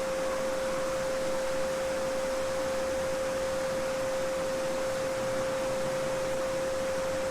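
A steady 528 Hz sine tone, the so-called solfeggio frequency, held without change over the even rushing of a babbling brook.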